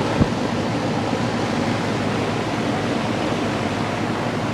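1982 GE Executive 2-ton central air conditioner condensing unit running: a steady rush of air from the condenser fan over a low compressor hum. A brief low thump comes about a quarter second in.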